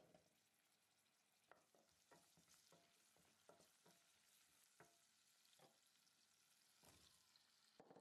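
Faint sizzling of sliced onion, carrot and green chilli frying in oil in a stainless steel pot, with scattered light clicks from the pan. A fuller thump comes near the end.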